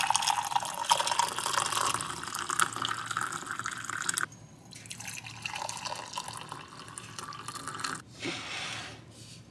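Water running from a kitchen tap, a strong flow for about four seconds, then a softer trickle, with a brief gush again near the end.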